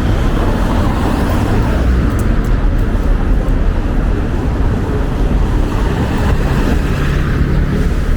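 Wind buffeting the microphone in a loud, steady low rumble, mixed with city street traffic noise.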